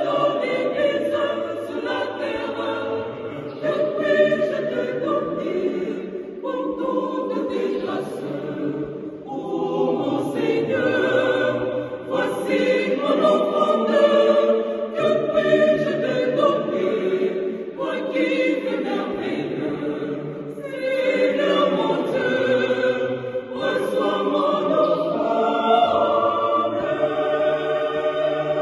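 Mixed church choir singing a French offertory hymn in several voice parts, apparently unaccompanied.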